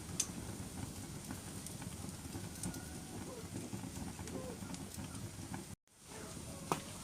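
Wood fire in a fireplace crackling steadily, with occasional sharp pops from the burning logs and a few faint squeaks. The sound cuts out for an instant just before six seconds in.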